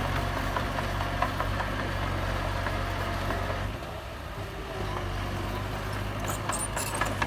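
Mini bulldozer's diesel engine running steadily, with light rattling and clicks. About four seconds in, the engine note drops briefly, then settles into a slightly different steady hum.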